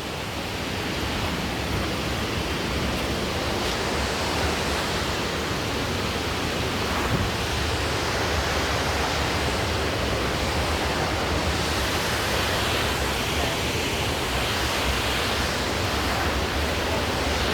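Steady rushing of a waterfall, an even wash of water noise with a low rumble underneath.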